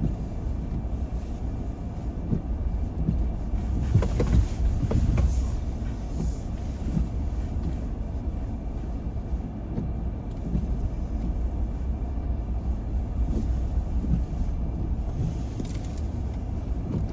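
A car driving: a steady low rumble of tyres and engine, with a few short knocks about four to five seconds in.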